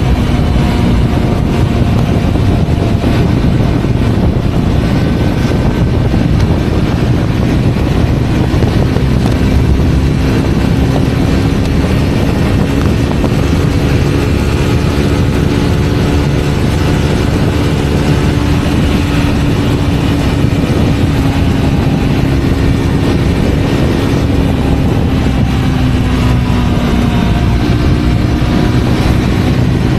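Triumph Scrambler 400X single-cylinder engine running at steady high revs while riding at speed, with a dense rush of wind. The engine note holds nearly level, dips a little near the end, then climbs again.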